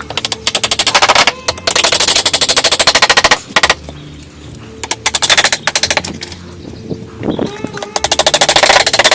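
Rapid rattling strikes, many per second, in four bursts of one to two seconds each, with short quieter gaps between them.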